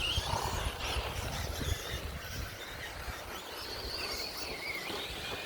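1/10-scale 2WD electric short course RC trucks running on the track, their motors whining with rising and falling pitch over a steady low rumble.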